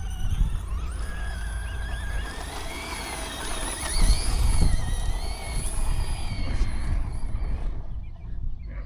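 Electric motor of a Traxxas Slash RC truck whining as it drives, the pitch wavering up and down with the throttle and fading out near the end, over a steady low rumble of wind on the microphone.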